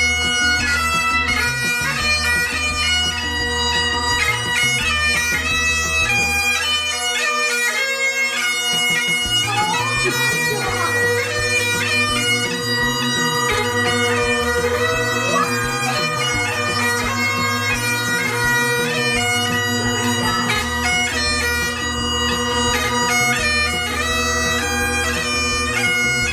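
Bagpipe music: steady drones held under a moving melody, with a rhythmic bass line beneath.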